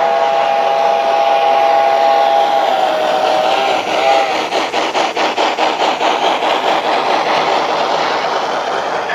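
Model Southern Pacific AC-12 cab-forward steam locomotive sounding a long two-note whistle over a steady steam hiss; the whistle wavers and stops about four seconds in. A quick, even rhythmic beat of the running locomotive follows.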